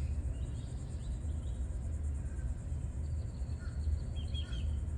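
Insects buzzing steadily, with a few short bird chirps about three and a half seconds in, over a steady low rumble.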